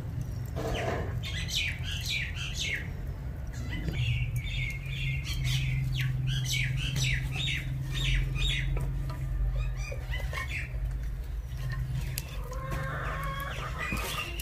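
Small birds chirping over and over, short high chirps coming thick for most of the stretch, over a steady low hum.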